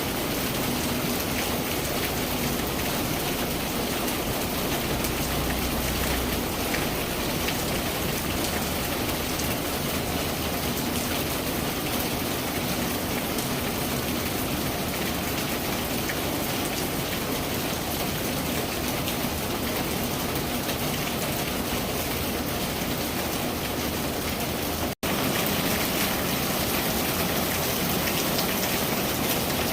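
Steady rain falling, an even hiss of drops with a split-second break near the end.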